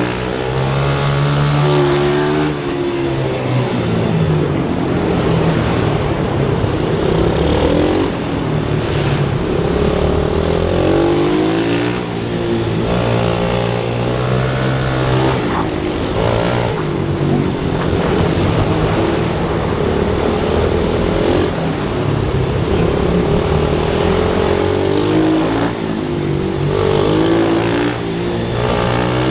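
Pit bike's small single-cylinder engine running hard, its pitch climbing and dropping again and again as it accelerates and slows.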